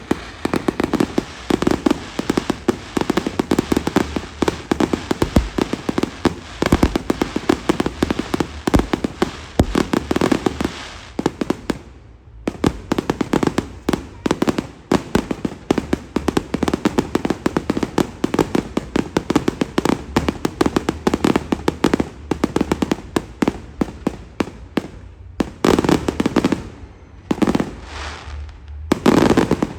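Fireworks display: a dense, rapid crackling of many small pops, with a brief gap about twelve seconds in and a few heavier bursts near the end.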